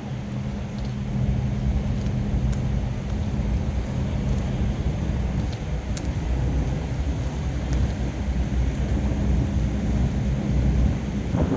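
Big-rig diesel engine running steadily with a deep, even rumble.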